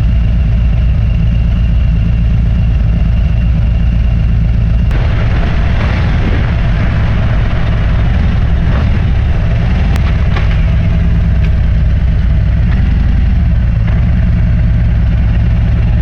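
Motorcycle engine running steadily while riding, with wind rush on the microphone that grows louder about five seconds in.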